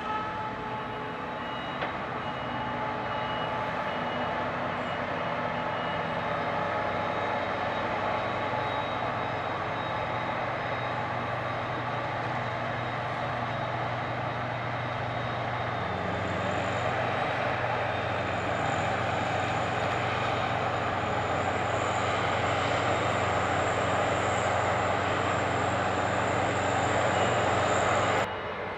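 Heavy vehicle engine running steadily under load with a broad mechanical rush; a thin high whine joins about halfway through, and the sound cuts off abruptly near the end.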